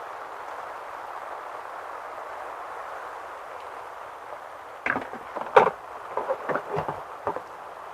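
Hand pruners snipping rose bush limbs: a quick, irregular run of sharp clicks starting about five seconds in, over a steady hiss.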